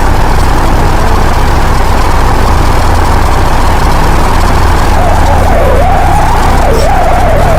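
Loud, rough space-sound recording of one of Saturn's moons: a dense, static-like rumble over a steady deep hum. About five seconds in, a wavering tone that dips and rises joins it.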